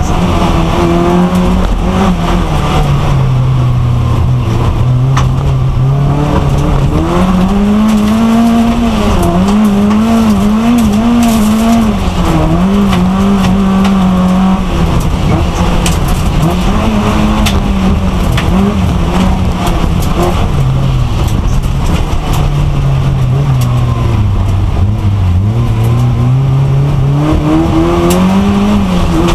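Racing car's engine heard from inside its stripped-out cabin, running loud under load. Its pitch sinks and climbs again several times: a long fall in the first few seconds, a climb and wavering around the middle, another slow fall and rise near the end.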